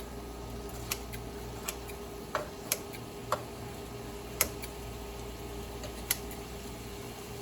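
Kitchen shears snipping through cooked chicken in a pan: scattered sharp clicks, about eight of them at uneven intervals, over a steady hum.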